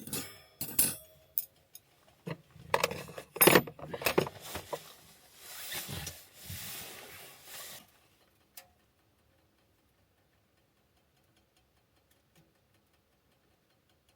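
Clinks, knocks and clatter of small hard objects such as dishes and utensils being handled, with a soft hiss for a few seconds, then quiet from about eight seconds in.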